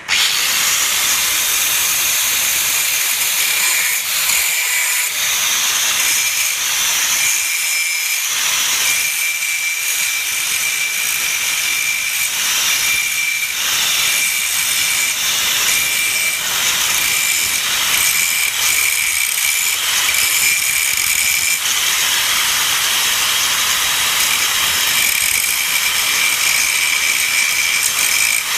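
Doliz BA 370 electric angle grinder running under load, its disc grinding into a workpiece: a steady, high-pitched grinding hiss with a ringing tone through it.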